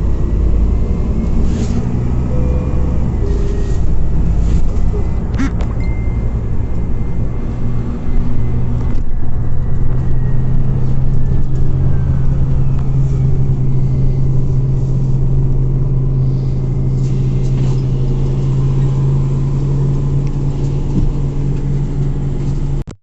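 Scania OmniCity CNG city bus heard from inside while driving: a steady low engine and road drone with a few rattles about five seconds in. About nine seconds in the engine note settles into a stronger, even hum, which cuts off briefly near the end.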